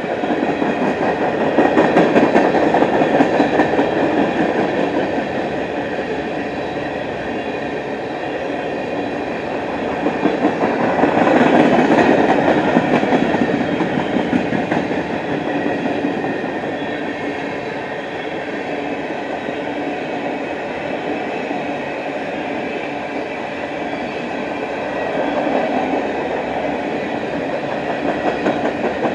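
Freight cars of an empty manifest train rolling past, with a steady rumble and clatter of steel wheels on rail that swells louder a few times.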